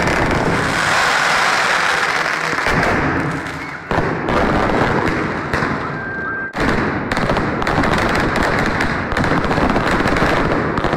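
Fireworks display: a dense, continuous barrage of bangs and crackles going off without let-up, easing off briefly about four seconds in and again past the middle, with a short high whistle just before the second lull.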